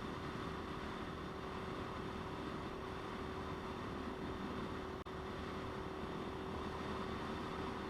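Motorcycle running at a steady speed with wind rushing over the microphone, one constant engine note throughout and a brief dropout in the sound about five seconds in.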